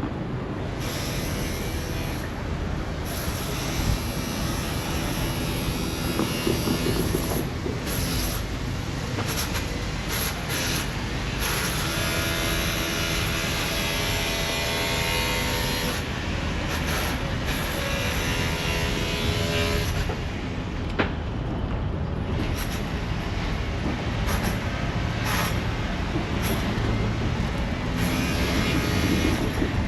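Low rumble of passing motor vehicles and engines. An engine hum holds a steady pitch for several seconds in the middle.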